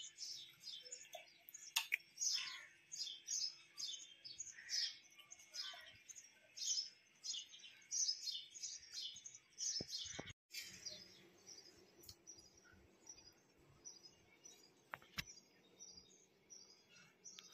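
Small birds chirping, many short high calls in quick succession, fainter in the second half, over a faint steady hum.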